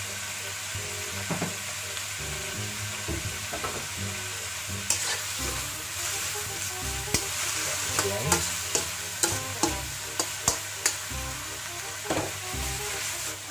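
Shredded vegetables sizzling in a wok over a gas flame, a steady hiss. From about five seconds in, a spatula tossing them knocks and scrapes against the wok in a quick string of sharp clacks.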